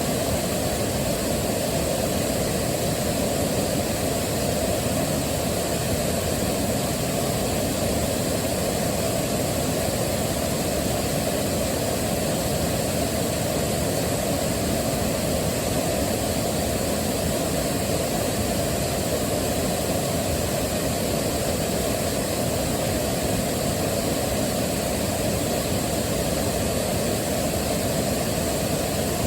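Waterfall: a steady rush of falling water, heaviest in its low range and unchanging throughout.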